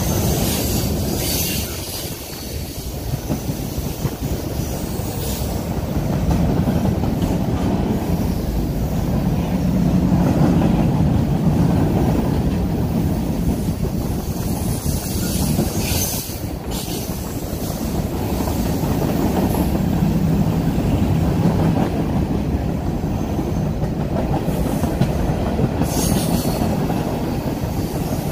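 Freight train of containers, boxcars and tank cars rolling past: a steady rumble of wheels on rail that swells and eases, with brief high screeches a few times.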